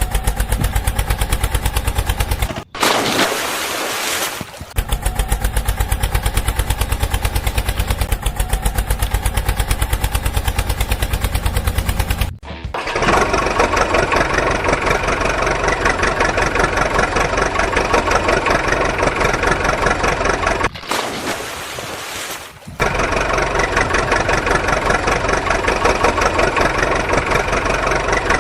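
Tractor engine running with a steady, rapid chug, its sound changing to a different engine about halfway through; twice it gives way for a couple of seconds to a hissing noise.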